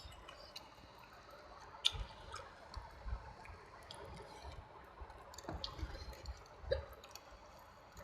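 Close-miked eating sounds: wet chewing and smacking with irregular small sharp mouth clicks, two of them louder, about two seconds in and near the end.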